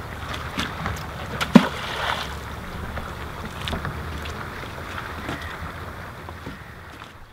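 Wind buffeting the microphone over water noise, with scattered small knocks and one sharp knock about a second and a half in; it fades out near the end.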